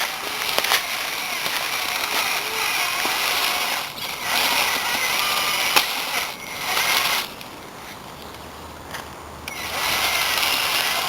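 Electric drive motor and gearbox of an RC trial truck whining as it drives. The whine stops briefly twice, then stops for about two seconds before starting again.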